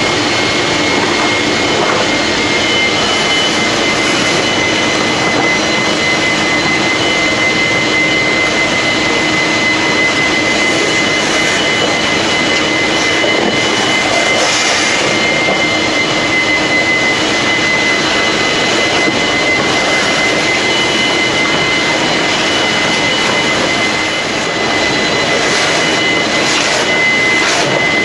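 Big Brute wet and dry industrial vacuum cleaner running steadily: a loud rush of air with a high, steady motor whine, and a few brief surges as it sucks up waste oil.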